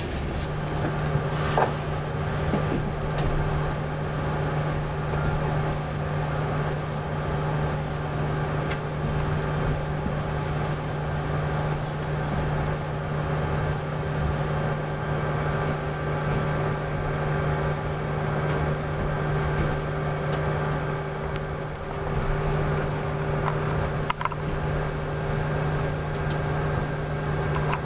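Steady hum inside a moving passenger train carriage, heard through the closed window, with a few clicks.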